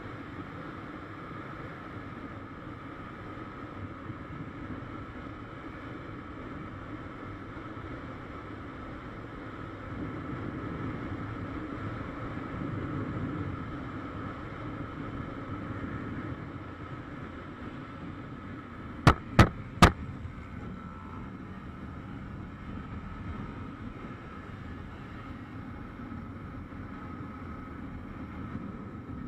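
Motorcycle engine running steadily while riding, with road noise. Three sharp, loud cracks in quick succession about two-thirds of the way through.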